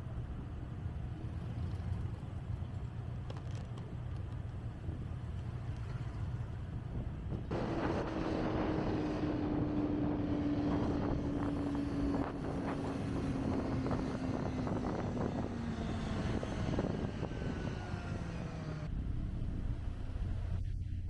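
Motorcycle engine running at speed with wind noise, most likely the Kawasaki Ninja ZX-25R's 250 cc inline-four being ridden. About a third of the way in the engine grows louder, then its pitch falls slowly as the bike slows, and it drops back abruptly near the end.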